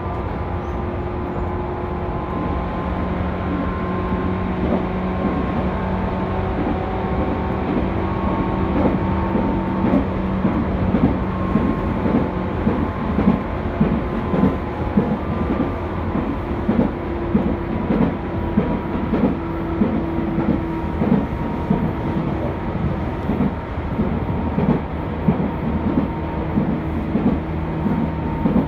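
Tobu 10000-series electric train heard from inside motor car MoHa 11201 while running: a steady hum with a few held tones from the DC compound-wound traction motors and running gear. About a third of the way in, a rhythmic clickety-clack of wheels over rail joints starts up and grows louder.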